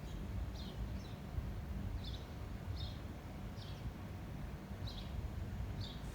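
A small bird chirping over and over, short high chirps coming irregularly about once a second, over a steady low rumble of wind on the microphone.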